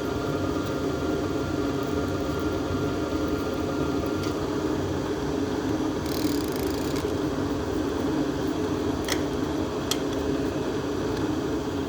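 Drilling machine running steadily as a bit cuts through the cast-iron block of a 350 Chevrolet at a water pump bolt hole, with a brief hiss about six seconds in and a few sharp clicks near the end.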